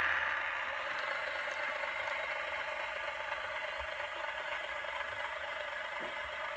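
N gauge model train running along the track, its small motor and wheels making a steady whirring rattle. It eases off over the first second, then holds steady.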